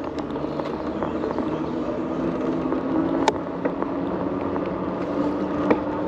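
Electric bike motor whining steadily, its pitch climbing slowly as the bike picks up speed, over wind and tyre noise, with a few sharp clicks.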